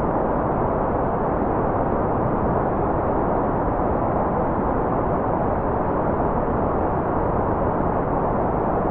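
Generated white noise playing as a constant, even rush with no changes. It is dull rather than hissy, with its strength in the lows and mids and no high treble.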